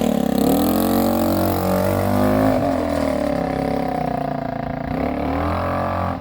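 Aprilia Leonardo 150 four-stroke single-cylinder engine of a handmade mini chopper, with automatic transmission, running with its revs rising and falling several times. The sound drops away sharply near the end.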